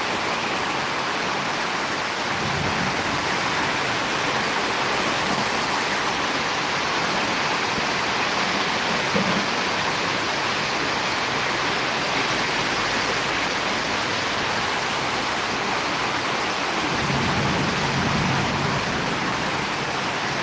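Steady rain and wind of a storm, an even continuous hiss. Low rumbles swell in briefly about two seconds in and again near the end.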